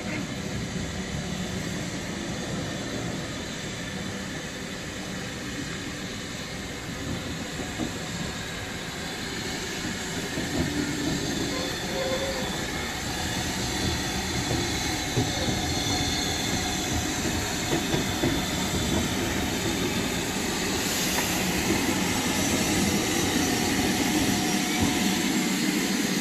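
Train running on the track: a steady rumble of wheels on rail that grows gradually louder.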